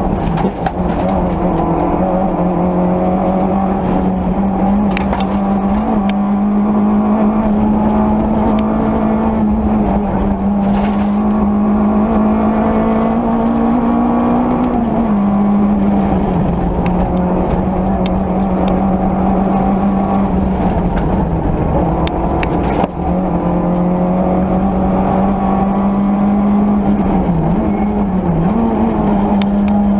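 Peugeot 205 Rallye rally car's four-cylinder engine heard from inside the cabin, running hard at near-steady revs over tyre and road noise, with scattered sharp clicks. Its pitch steps down about halfway through and dips briefly twice near the end.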